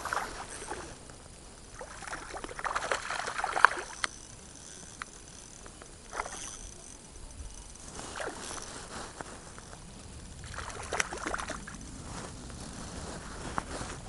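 Water splashing and sloshing in several short, irregular bursts, with a few sharp clicks among them.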